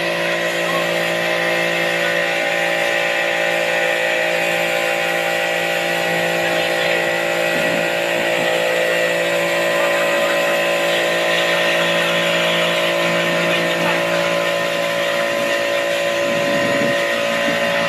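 A motor running steadily with an unchanging hum of several tones.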